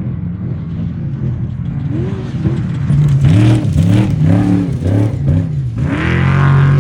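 Off-road race vehicle's engine, steady at first, then revving up and down again and again, about one and a half times a second, and held at high revs near the end.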